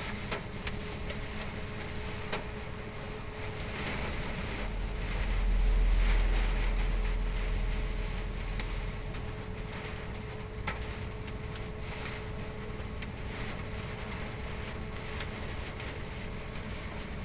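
Rainstorm heard from inside a truck cab: a steady hiss of rain and wind on the cab with scattered sharp ticks. A strong gust swells low and deep about five seconds in and dies away by about eight seconds.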